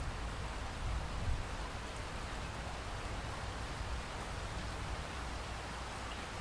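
Steady rainfall, an even hiss of rain with a low rumble beneath it.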